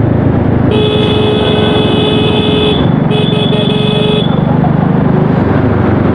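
A vehicle horn honks twice in city traffic, first held for about two seconds, then about a second after a short break, over steady road and wind noise from riding a moped.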